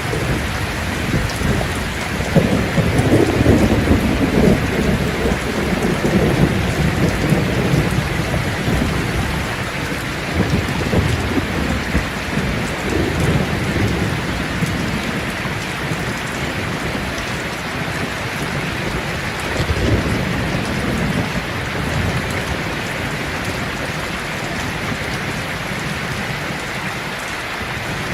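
Steady rain with rolling thunder rumbling low underneath. The heaviest rumble comes a few seconds in, and weaker ones follow about halfway and two-thirds of the way through.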